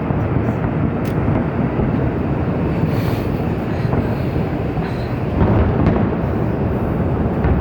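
Fireworks show: a continuous rumble of many overlapping aerial shell bursts, with a sharp crack about a second in.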